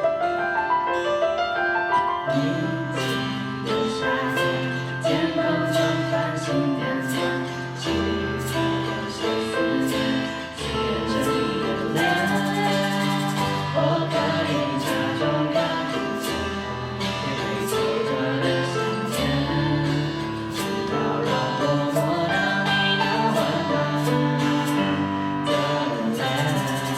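Live pop band playing with a steady drumbeat, guitar and keyboard, and sung vocals.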